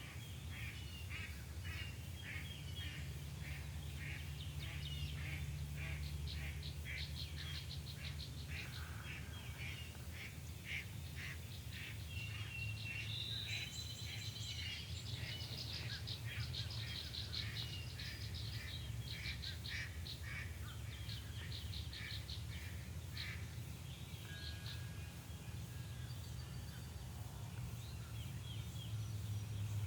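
Ducks quacking in a long run of quick repeated calls, about two a second, with other birds chirping higher up. The quacking thins out near the end. A steady low hum lies beneath.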